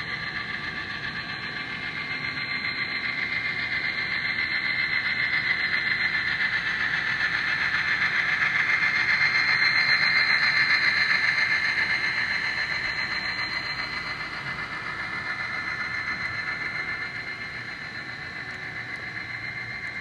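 N scale model train running past, a steady whine with high tones that grows louder to a peak about halfway through and then fades away.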